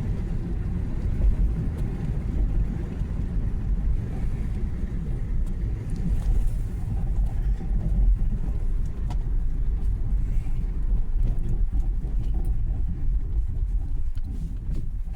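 A car driving along: a steady low road and engine rumble, easing slightly near the end.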